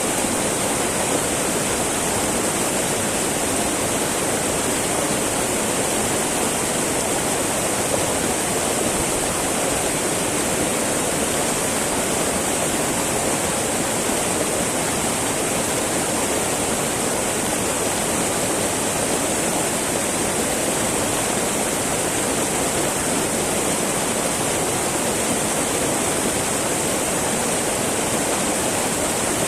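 Small mountain river babbling over rocks: steady rushing flow of water with no change.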